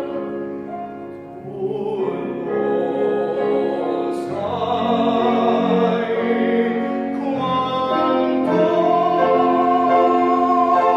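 Teenage tenor singing an Italian art song in classical operatic style with piano accompaniment, holding a long note with vibrato in the second half.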